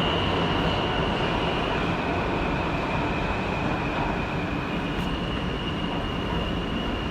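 New York City subway E train running between stations, heard from inside the car: a steady rumble and rush of wheels on rail, with a thin high-pitched whine held throughout.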